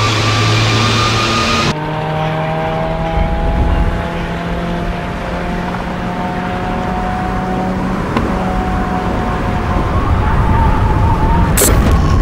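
Ford Fiesta rally car's turbocharged four-cylinder engine cruising at a steady, nearly constant pitch. A sharp crack comes near the end.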